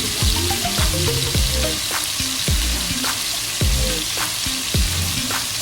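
Pork pieces frying in hot oil in a cooking pot: a steady sizzle. A melody with a regular thudding beat, background music, plays along with it.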